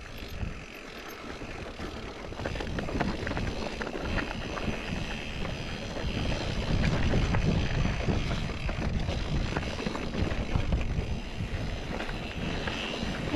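Mountain bike riding down rough, rocky desert singletrack: tyres rolling over rock and dirt and the bike rattling with many small knocks, with wind rumbling on the microphone. It gets louder about halfway through.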